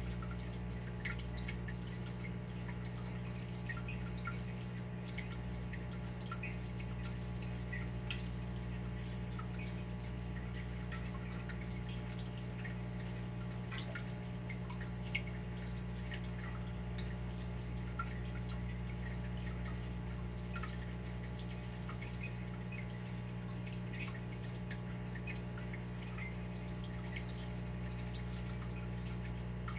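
Water dripping: many small, irregularly spaced drops over a steady low hum.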